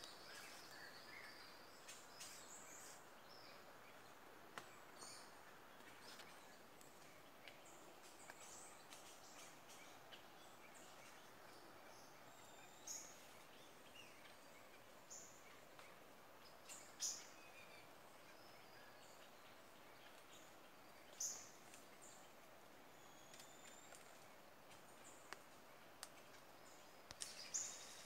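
Several forest birds calling faintly and intermittently: short high chirps every few seconds, with a couple of louder ones past the middle, over a quiet forest hush.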